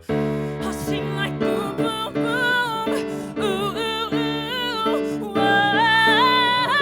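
Female voice singing a musical theatre song with vibrato over instrumental accompaniment, ending on a long held note that climbs in pitch.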